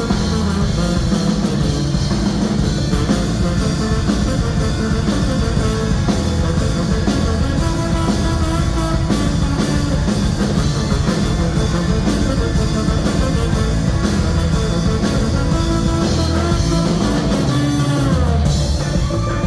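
Live ska-punk band playing loud, with electric guitar and drum kit, and a falling glide in pitch near the end.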